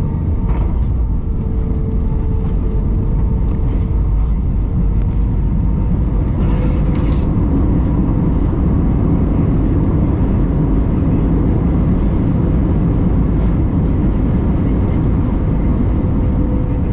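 Airliner cabin noise during landing: the engines and rushing air make a steady, loud low rumble, with a faint steady hum running through it.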